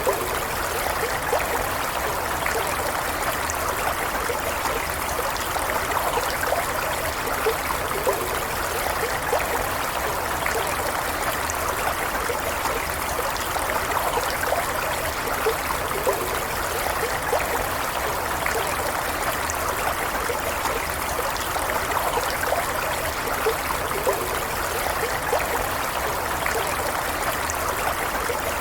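Stream water running and trickling at a steady level, with small splashes and gurgles throughout.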